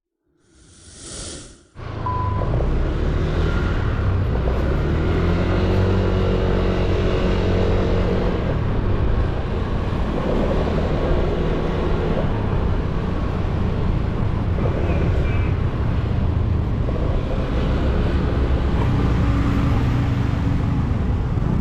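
Motorcycle engine running while riding, with wind and road noise, its pitch rising and falling with the throttle. A brief swelling whoosh comes first, before the riding noise sets in under two seconds in.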